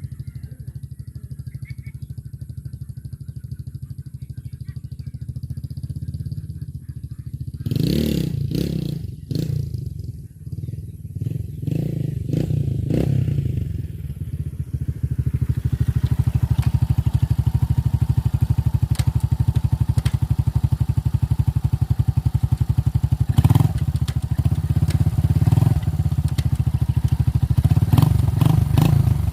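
Chinese 150cc dirt bike's single-cylinder engine running while being ridden. There is a spell of clattering knocks about eight seconds in, and the engine runs louder and steadier from about halfway through.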